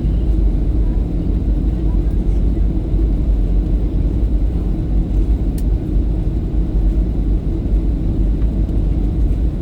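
Steady low rumble of a jet airliner heard from inside the cabin, engines and airflow, as the aircraft descends on approach to land.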